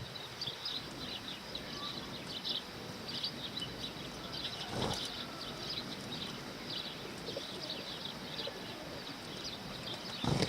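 A flock of sparrows chirping in a steady stream of quick, short chirps, with a brief rush of noise about halfway through.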